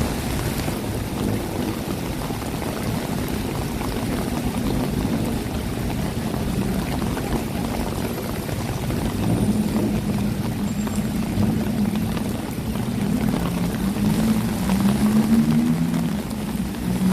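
City street traffic in the rain: a steady hiss of rain and wet road noise, with a vehicle engine's low drone coming in about halfway through and growing louder toward the end.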